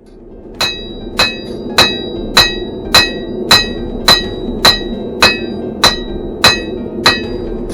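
Blacksmith's hammer striking hot steel on an anvil at a steady rhythm, just under two blows a second, each blow with a bright metallic ring; about a dozen blows, starting about half a second in. The forge roars steadily underneath.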